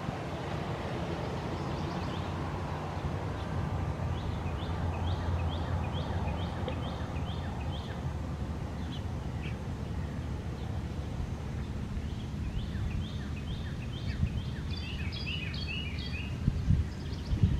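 Wild birds calling: runs of short high chirps, several a second, starting a few seconds in and thickening near the end, over a steady low outdoor rumble.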